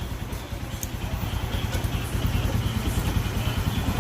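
Suzuki Jimny JA11's small three-cylinder engine idling: a steady, rapid low pulsing that gets a little louder about two seconds in.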